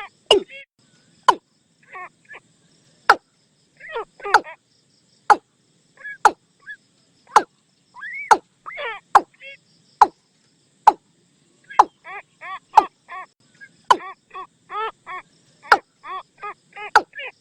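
Watercock calls: sharp, loud knocking notes about once a second, mixed with runs of quick pitched call notes that come thickest near the end.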